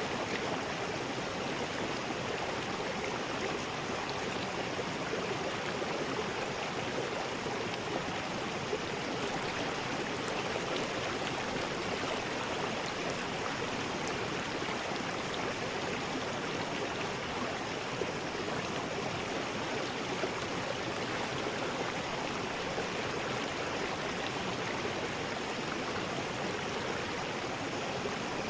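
River rapids: water rushing steadily over rocks in a continuous, even roar.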